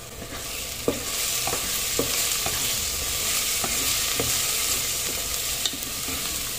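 Onions and spices sizzling in hot ghee in a metal pressure cooker, the sizzle swelling as stirring starts. A wooden spatula stirs them, knocking and scraping against the pot about once a second.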